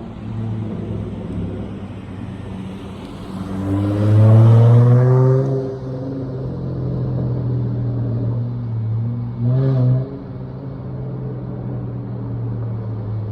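Dodge Charger SXT's V6 through a Flowmaster Outlaw exhaust, running with a steady low drone. It revs up for about two seconds starting around four seconds in, then gives a short rev near ten seconds.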